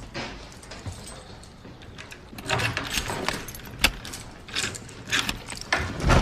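A run of irregular sharp clicks and knocks, starting a couple of seconds in and loudest near the end.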